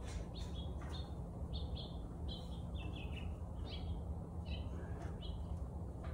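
Bird chirping, a string of short high notes a few tenths of a second apart, over a steady low hum.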